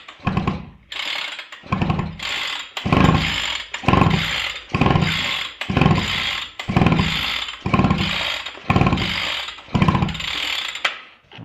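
Recoil pull-starter of a small brushcutter engine on an outboard motor, pulled repeatedly, about once a second, spinning the engine over with the spark plug removed, so it turns freely without compression. Each pull is a whirring rattle that falls in pitch, and the pulls stop abruptly near the end.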